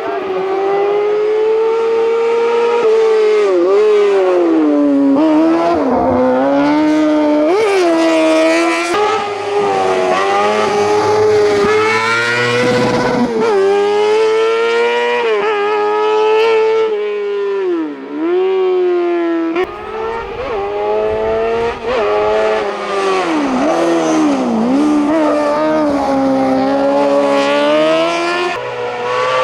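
Hillclimb race car's engine at high revs, its pitch climbing and then falling sharply again and again as the driver shifts gears and lifts off for corners. There is a deep drop in revs about two-thirds of the way through and another shortly after.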